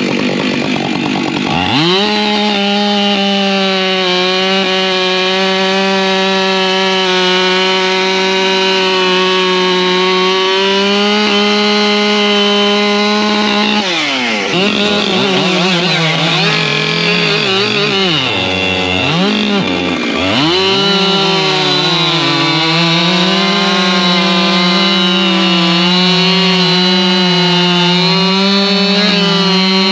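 Husqvarna two-stroke chainsaw revving up to full throttle and running at a high steady pitch while cutting wood. About halfway through it drops back toward idle for a few seconds, then revs up and runs flat out again.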